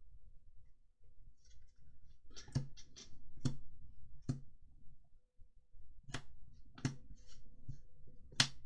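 Trading cards being handled: a scattered series of light clicks and taps, about ten, with faint rustling between them, the last tap the sharpest.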